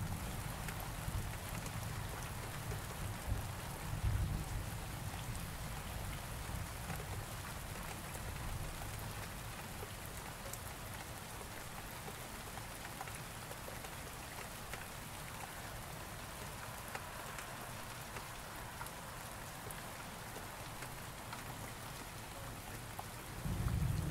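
Steady rain falling, an even hiss. A low thunder rumble fades out over the first few seconds, and another low rumble of thunder starts up near the end.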